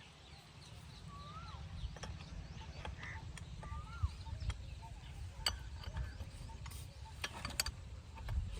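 Scattered metallic clicks and clinks over a low rumble, while a bird repeats a short rising-and-falling whistle.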